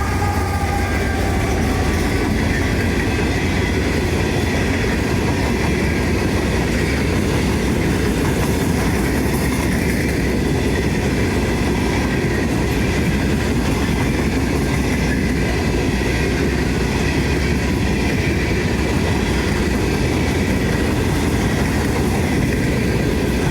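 Norfolk Southern coal train rolling past, a loud, steady rumble of steel wheels on rail that goes on without a break.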